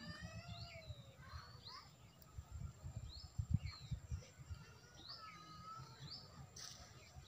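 Small birds chirping repeatedly in short rising and falling calls, over soft, irregular low thumps.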